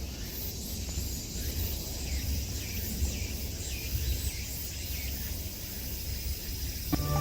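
Autumn forest ambience: a steady high chirring of insects, overlaid with a run of short repeated chirps and a low rumble. Music begins right at the end.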